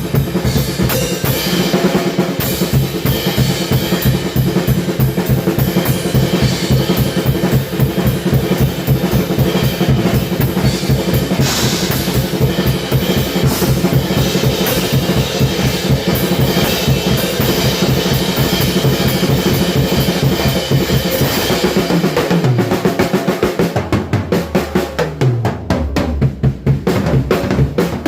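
Drum kit played fast in triplet patterns across bass drum, snare and cymbals. About three quarters of the way through, the cymbal wash drops away and it moves to sparser, lower tom strokes.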